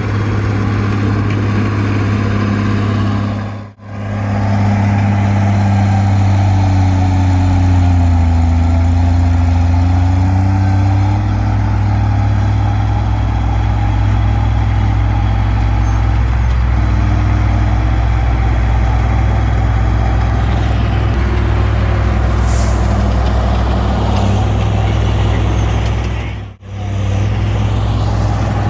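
Komatsu D20P bulldozer's diesel engine running steadily, its pitch sagging briefly and recovering. The sound drops out for a moment twice, about four seconds in and near the end.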